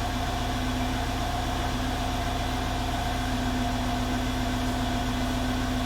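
Mercedes-Benz E500 (W212) 4.7-litre twin-turbo M278 V8 idling steadily through its stock exhaust while still warming up from a cold start.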